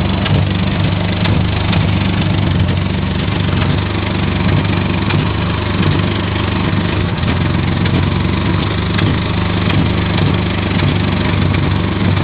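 Subaru XT6's flat-six engine idling steadily.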